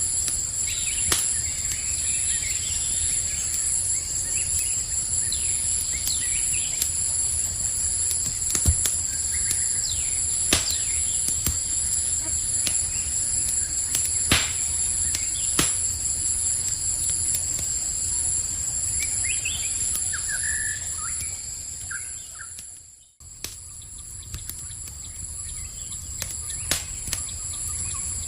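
Campfire crackling, with sharp pops every second or two, over a steady high-pitched insect chorus. A few bird chirps come about two-thirds of the way in, and all sound dips out briefly soon after.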